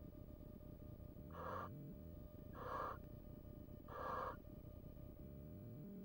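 Barn owl giving three short, harsh rasping calls about a second and a half apart.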